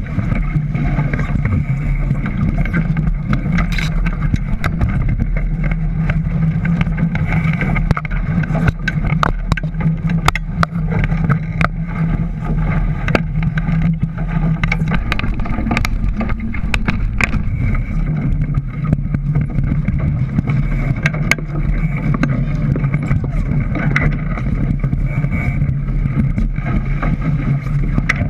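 Boat motor running steadily at a constant pitch, with many short clicks throughout.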